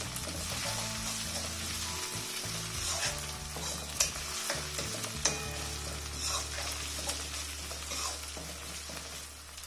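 Browned chopped onions and ginger-garlic paste sizzling in hot oil in a steel kadai, stirred with a metal spatula that scrapes and clicks against the pan every second or so. The paste is being cooked until it loses its raw smell.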